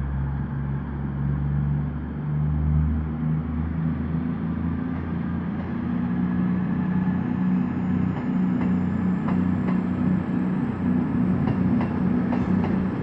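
Class 221 Super Voyager diesel-electric train pulling out and accelerating, its underfloor diesel engines running with a steady low drone. A thin high whine climbs in pitch through the second half, and sharp clicks of wheels over the track come in from about eight seconds in.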